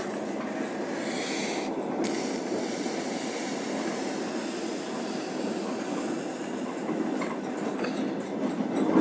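Moving passenger train heard from inside the carriage: a steady running rumble of the wheels on the rails. A high hiss joins for a few seconds after the first second or so, and a few faint clicks come near the end.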